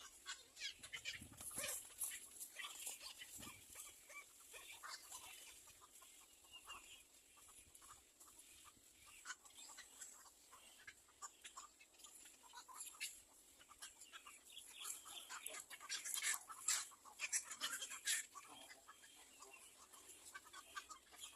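Faint, scattered short chirps and ticks from nestling birds in a nest, busiest about sixteen to eighteen seconds in.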